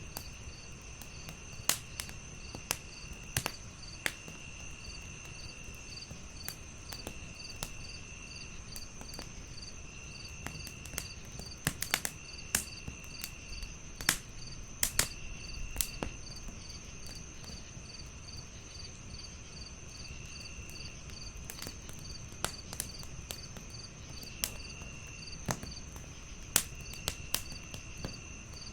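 Crickets calling in layers: one steady high trill, one chirping about three times a second, and a lower trill that comes and goes in short phrases. Over them a wood fire crackles and pops irregularly, with a cluster of louder pops about twelve and fifteen seconds in.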